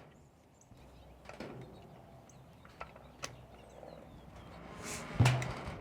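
A torque wrench and hex screws being tightened into an FN SCAR's upper receiver. Sparse, quiet clicks and handling noises are heard, with one louder knock about five seconds in.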